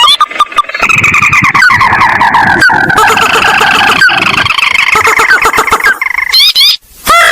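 Lure-call recording of the swamp bird called sintar: rapid rising call notes, repeated several times a second, then a long dense run of fast notes that slowly falls in pitch over a low rumble. Brief rising calls return near the end.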